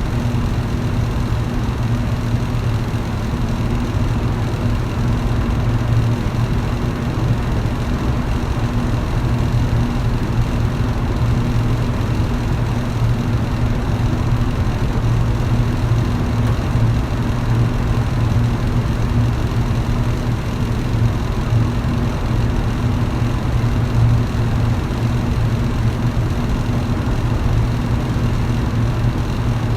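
Electric fan running steadily: a constant rush of moving air over a low motor hum.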